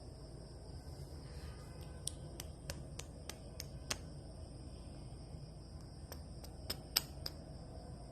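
A series of sharp clicks, about three a second for a couple of seconds, then a few more near the end, over a steady high-pitched whine.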